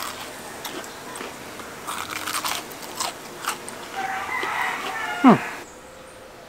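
Crisp battered fried chicken drumstick being bitten and chewed: repeated sharp crunches of the crust. Near the end there is a short downward-sliding sound, then the crunching stops.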